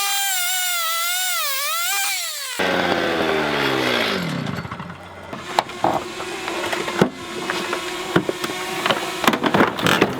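Electric saw cutting through the rusted sheet-metal body of a Mazda RX-7, its motor whine rising and falling with the load. Its sound cuts off about two and a half seconds in; a falling whine like the motor spinning down follows, then scattered metal clanks and rattles.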